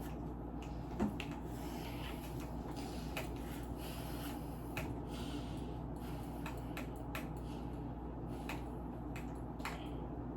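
Steady low background hum with scattered small clicks and knocks, like objects being handled.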